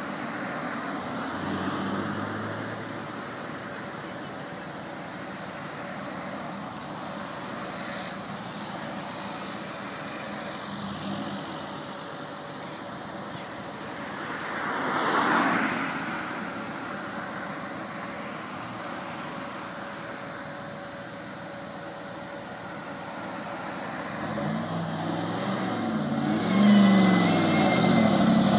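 SSC Ultimate Aero's twin-turbo V8 idling with a brief louder swell about halfway, then revving up hard and accelerating away near the end.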